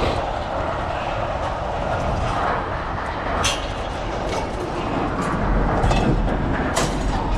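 Scrap metal being thrown off a truck: a few sharp metal clanks, the clearest about halfway through and near the end, over a steady mechanical rumble.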